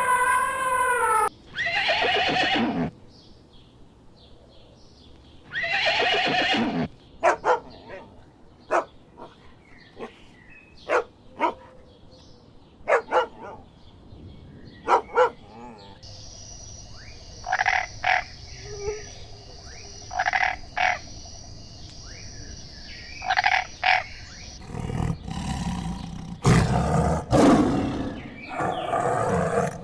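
A run of different animal calls: pitched calls, then short sharp calls. It ends in several loud, deep roars.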